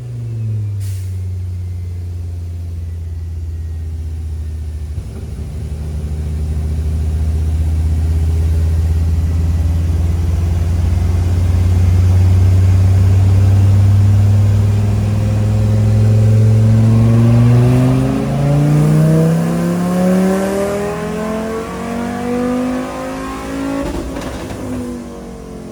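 Dodge Viper race engine running under load on a chassis dyno. Its pitch drops at the very start, then holds and rises slowly, climbs faster from about two-thirds of the way through, and falls back near the end.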